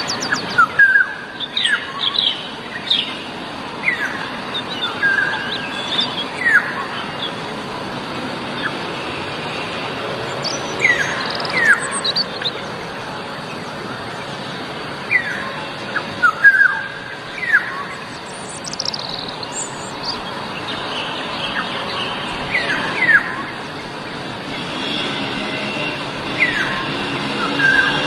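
Black-naped oriole giving short whistled call notes, many sliding down in pitch, at irregular intervals every second or two, over a steady background hiss.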